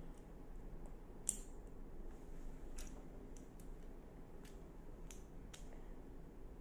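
Lego bricks being handled and pressed together: about six separate small plastic clicks over a faint low hum, the sharpest one about a second in.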